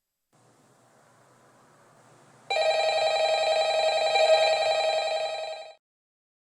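Telephone bell ringing: one continuous ring of about three seconds with a fast hammering flutter, which cuts off abruptly. A faint hiss comes before it.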